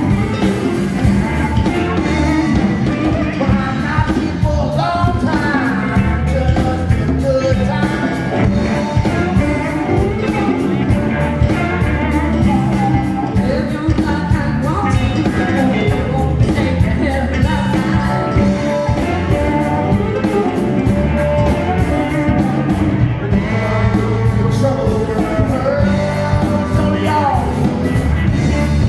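Rock band playing live with a singer, guitars and a steady drum beat.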